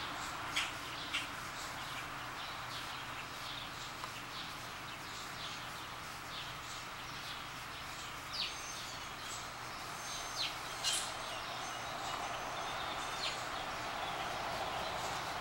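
Scattered short, high bird chirps, with a few sharper ones around eight and eleven seconds in, over a steady outdoor background hiss.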